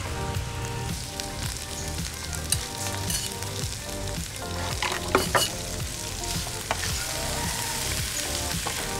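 Chicken pieces sizzling as they fry in spice paste in a wok, with clinks and scrapes of tongs and a spatula against the pan.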